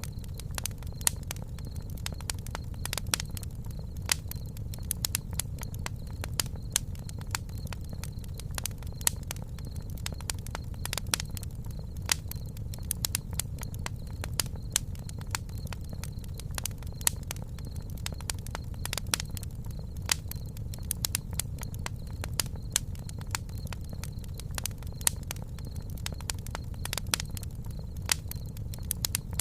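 Wood campfire crackling, with frequent irregular sharp pops and snaps over a low steady rumble of burning.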